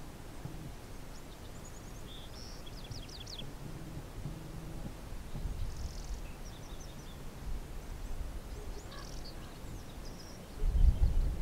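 Small birds chirping in short high-pitched clusters, three times, over a low wind rumble on the microphone. A strong gust of wind buffets the microphone near the end.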